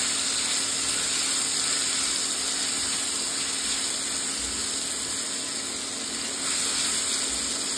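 Garlic-ginger paste sizzling steadily as it fries in hot mustard oil, roasting toward golden, with a faint steady hum underneath.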